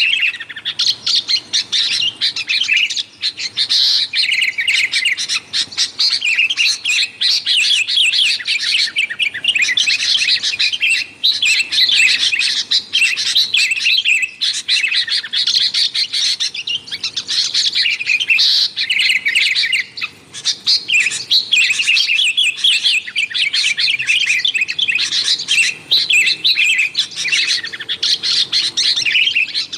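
Sooty-headed bulbuls (kutilang) calling busily: dense, rapid chirping and chattering with only brief pauses.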